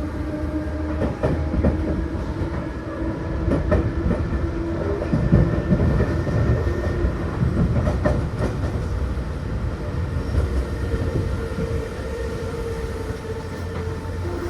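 Seibu New 2000 series electric train running on the line, with a steady rumble, a humming tone that shifts in pitch partway through, and the clicks of wheels over rail joints.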